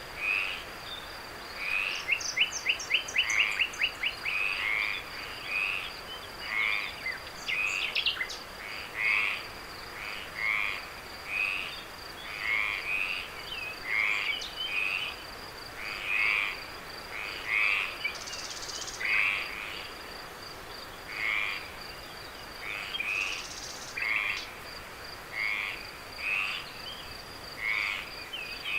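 A chorus of frogs calling, short croaks repeating about once a second, over a steady high-pitched insect trill. About two seconds in, a fast rattling call runs for a couple of seconds.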